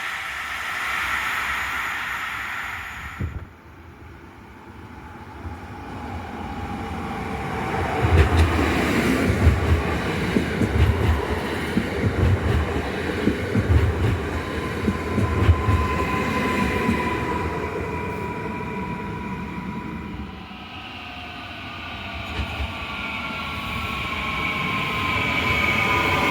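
Electric multiple units arriving and braking, one after the other. Their traction motors whine in steady tones that slowly fall in pitch as the trains slow, and the wheels thud irregularly over rail joints. It opens with the last few seconds of a faster train passing, cut off abruptly.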